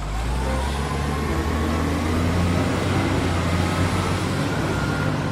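A large motor vehicle's engine running with a steady low rumble, its pitch rising slowly.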